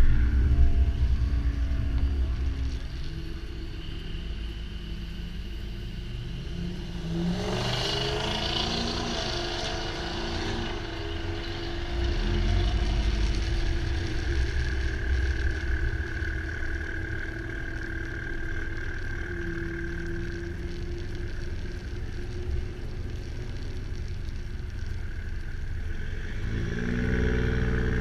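Vehicle engines running at a drag strip. One revs up in a rising sweep about seven seconds in, and another engine note climbs near the end.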